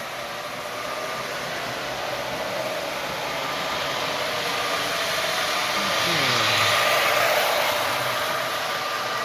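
MTH Rail King O-gauge GM Aerotrain model running with its Proto-Sound 3.0 engine sounds on: a steady whooshing running sound that swells about two thirds of the way through, with a faint tone falling in pitch just before the swell.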